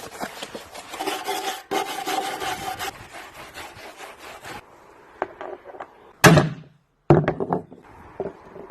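Scraping and rubbing at the washing machine's bearing housing as thick, gooey old grease and sealant is worked off by hand. There is quieter handling after that and one louder knock about six seconds in.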